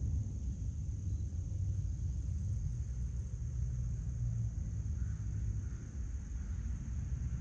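Backyard outdoor ambience: a low, steady rumble with a thin, steady high hum above it.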